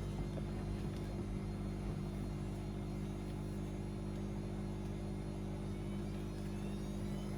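Washing machine running with a steady motor hum. Near the end a faint whine starts rising in pitch as the motor speeds up.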